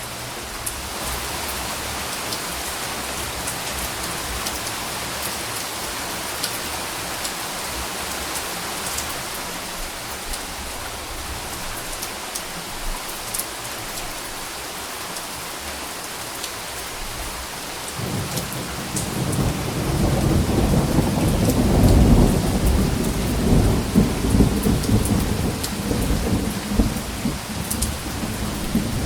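Steady rain falling, with individual drops ticking. About two-thirds of the way in, a low roll of thunder builds and rumbles on to the end.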